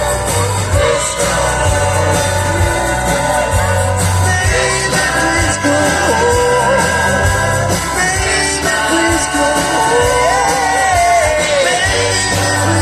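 Live rock band playing: drums, bass and guitar, with a voice singing long wavering notes over the band.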